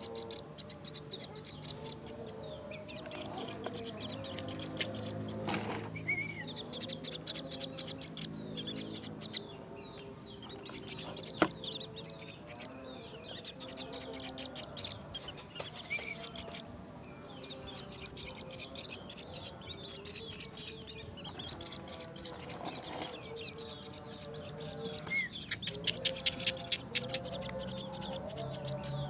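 White-breasted waterhen chicks begging while being hand-fed mealworms: rapid high cheeping in repeated bouts, with fluttering wings.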